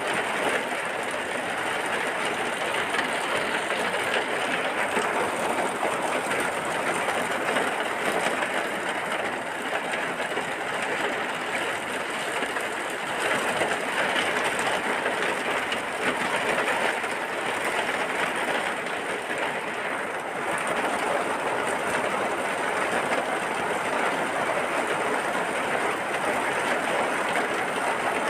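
Steady heavy rain falling: an even, unbroken hiss with no distinct drops or thunder.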